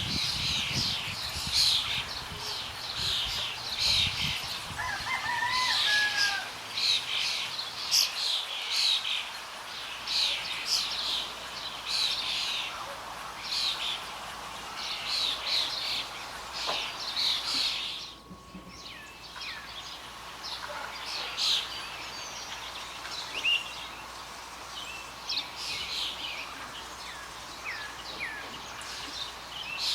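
Wild birds calling outdoors: a steady run of short, high, sharp chirps, one after another, with a short lull just past the middle.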